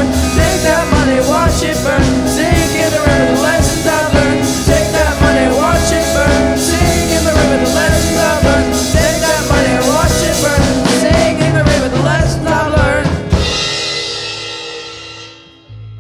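A rock band plays the final bars of a song with a full drum kit. The band stops about thirteen seconds in, and a last chord rings out and fades away.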